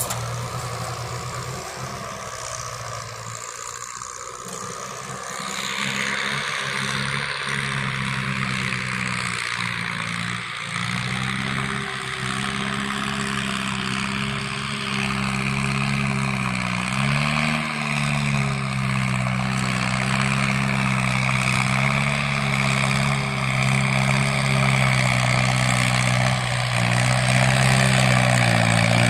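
Kubota tractor's diesel engine working under load pulling a plow through heavy clay soil. It is a steady drone whose pitch dips and rises once about 17 seconds in, and it grows louder toward the end.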